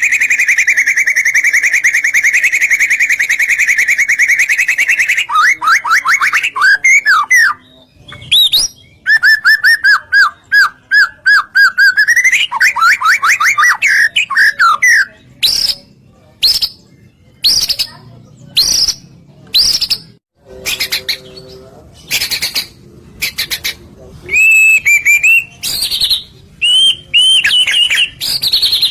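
White-rumped shama (murai batu) singing loudly. A fast trill is held for about five seconds, then comes a varied run of rapid rising and falling sweeps, whistled notes and short sharp calls, broken by brief pauses.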